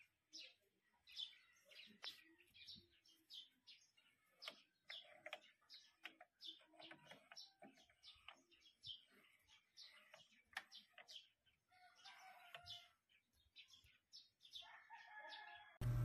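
Faint chirping of small birds: many short, high chirps. A louder steady hum cuts in at the very end.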